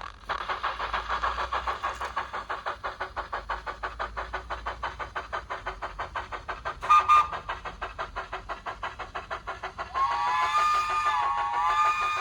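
Bachmann 009 Baldwin model steam locomotive's DCC sound playing through its upgraded Rail Exclusive 15x11x9 speaker: steady, rapid steam chuffing at about six beats a second. A short whistle toot comes about seven seconds in, and a longer chime whistle from about ten seconds in.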